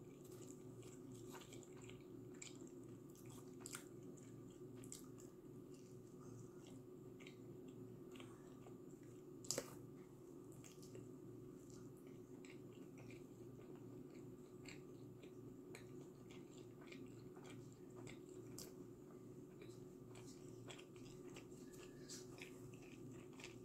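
Faint chewing of a slice of pizza: soft mouth clicks and smacks scattered through, over a steady low hum, with one louder click a little before halfway.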